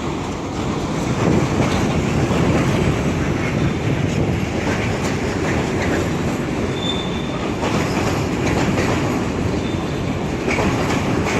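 Fully loaded container freight train of 30-plus wagons, hauled by two Class 90 electric locomotives, rolling past and picking up speed, its wagon wheels rumbling and clattering on the rails. A brief high wheel squeal comes about seven seconds in.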